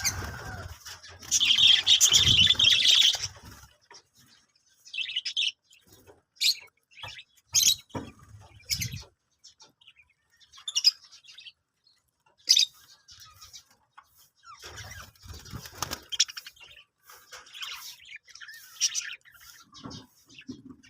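Budgerigars chirping in short, scattered calls, with a loud burst of chatter about a second in, and wing flutters among them.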